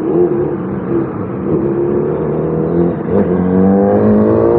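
Vehicle engine in traffic, running unevenly at first, then rising steadily in pitch as it accelerates from about three seconds in.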